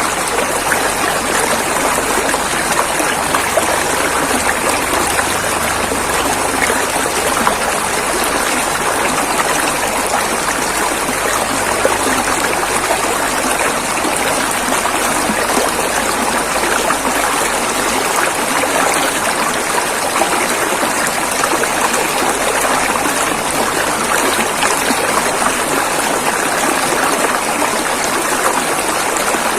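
River water flowing over rocks in a steady, even rush, with no changes or separate splashes.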